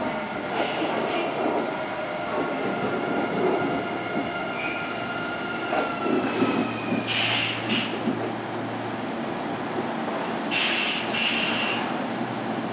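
Kintetsu electric train running in and braking: its motor whine falls steadily in pitch over the first six seconds. Short, very high squeals from the wheels come in three groups: about half a second in, around seven seconds, and near the end.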